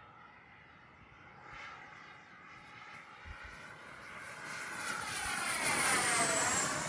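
Twin 64mm electric ducted fans of a Freewing F-14 RC jet whining in flight as it passes by. The sound grows louder toward about six seconds in, then drops in pitch as the jet goes past.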